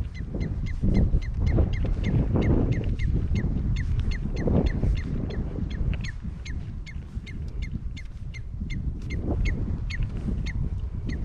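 A bird calling an unbroken series of short, sharp, slightly falling notes, about three a second, over a low rumble of wind on the microphone.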